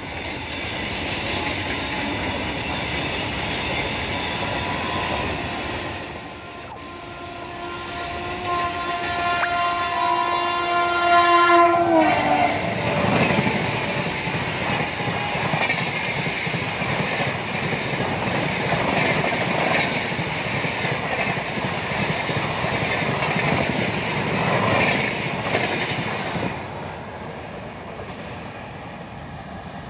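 Passenger express train, the Secunderabad–Danapur Clone Humsafar, passing at speed. The locomotive horn sounds a long chord for about five seconds and drops in pitch as it goes by. Then the coaches rush and clatter past on the rails for about a quarter of a minute before the noise falls away near the end.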